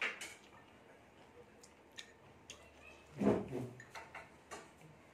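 Close-up eating sounds of rice and fried fish eaten by hand: soft chewing and scattered mouth clicks and lip smacks, with one short voiced mouth sound a little past halfway.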